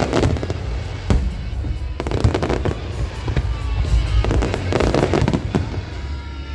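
Aerial fireworks bursting in a rapid series of bangs and crackling clusters, over a deep rumble, with music playing underneath.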